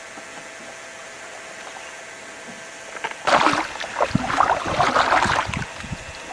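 Canoe being paddled on water: a steady watery hiss, then a few seconds of loud splashing and knocking from about halfway through.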